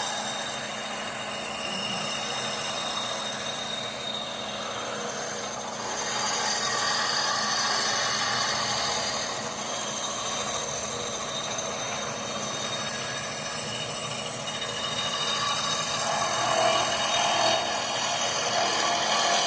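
Power tool running steadily on a cast-iron exhaust manifold, with a high whine and small swells in level as the load changes. Its spindle bearings are getting loose, by the owner's account.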